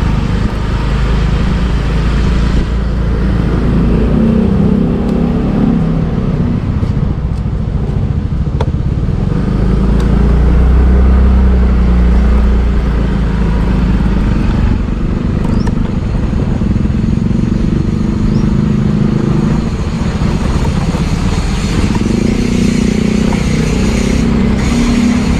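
Motorbike engine running as the bike rides through city traffic, its pitch rising and falling with the throttle, with a steady low wind rumble on the microphone that grows louder about ten seconds in.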